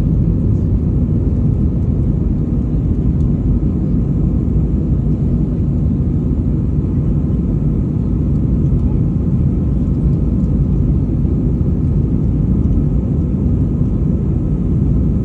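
Steady low rumble of a jet airliner's engines and airflow, heard from inside the cabin as the aircraft climbs after takeoff.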